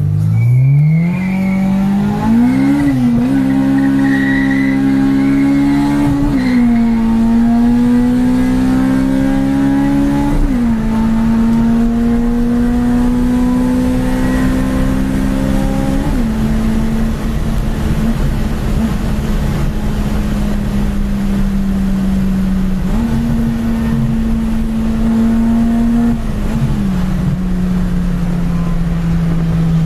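Honda Type R car engine heard from inside the cabin, revving hard as the car accelerates. Its pitch climbs, then drops at each of four quick gear changes. After that it cruises at a nearly steady pitch, rises once near the end and drops back with another shift.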